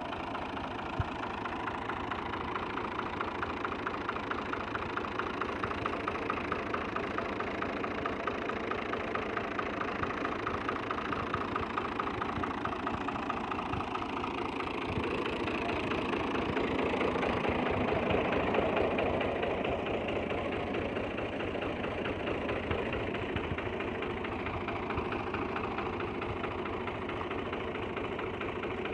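Fiat 480 tractor's diesel engine running with a fast, even chug, growing louder for a few seconds midway and then settling back.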